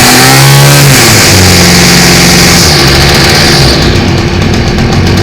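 Stihl FS40E trimmer's small two-stroke engine running loud and revving. The pitch climbs, drops back about a second in to a steadier speed, then eases down toward idle near the end.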